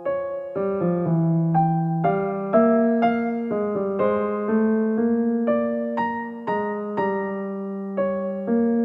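Background music: a gentle electric piano melody of struck notes, a few per second, each fading after it is struck.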